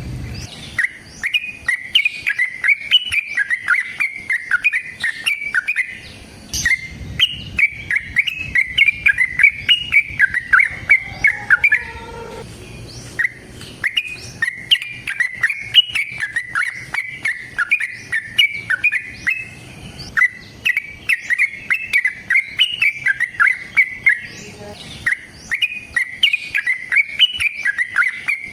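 Yellow-vented bulbul (trucukan) singing long, rapid chattering song phrases, the 'ropel panjang' of a bird in full song, with brief pauses about 12 and 20 seconds in.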